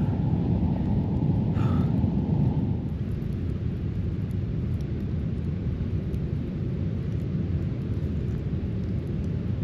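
Steady low rumbling noise, with a few faint ticks, of the kind wind buffeting a microphone or nearby surf makes.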